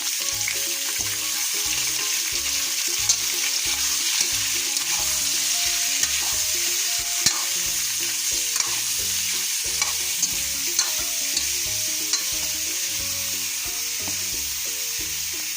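Chicken pieces frying in hot sunflower oil with curry leaves and cumin, sizzling steadily as they are stirred, with a few sharp clicks of the spoon against the pan.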